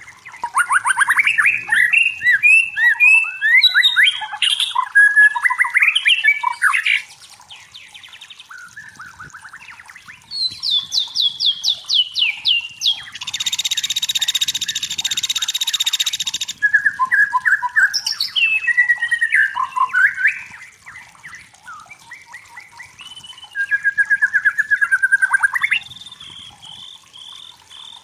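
White-rumped shama (murai batu) singing a varied song of rapid trills and whistled phrases in loud bouts with short pauses between them, and a harsh buzzing stretch of about three seconds midway.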